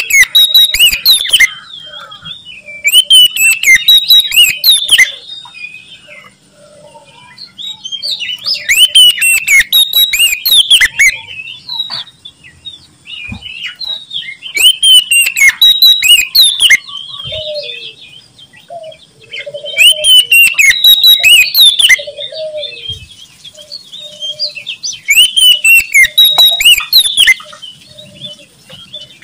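Oriental magpie-robin singing loudly in repeated phrases about two seconds long, roughly every five seconds, with softer calls between the phrases.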